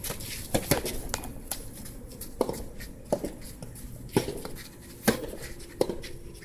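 Sharp, hollow pocks of soft tennis rackets striking the rubber ball and the ball bouncing during a baseline rally, about one every second.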